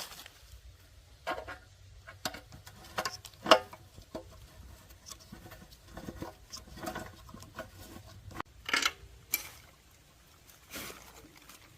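Irregular light taps, clicks and short scrapes of parts and hand tools being handled, with one sharper tap about three and a half seconds in; no engine running.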